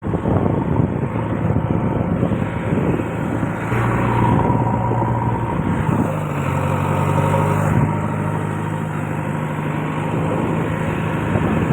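Heavy diesel engine running hard, its low hum stepping up in pitch about halfway through as the engine speeds up.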